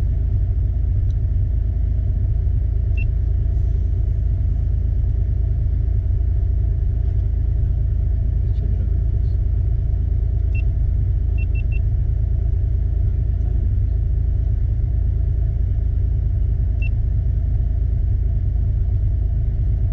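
Off-road 4x4's engine idling steadily, heard from inside the cab as an even low rumble, with a few faint light ticks.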